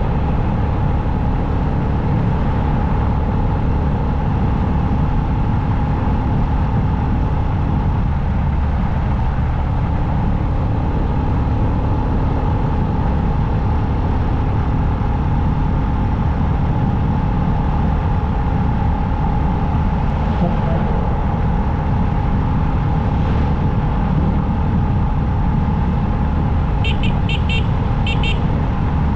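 Motorcycle riding at road speed: steady wind rush and road noise on the microphone over the engine's even drone, with a few short high beeps near the end.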